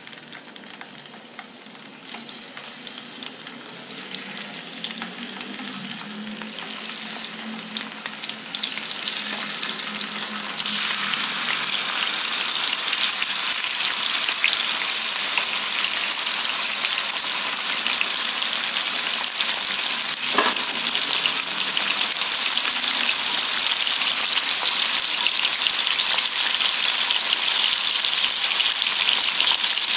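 Raw chicken pieces sizzling in a little hot oil in a wok. The frying starts faint and grows steadily louder over the first ten seconds or so as more pieces go in, then holds as a steady loud sizzle with fine crackling.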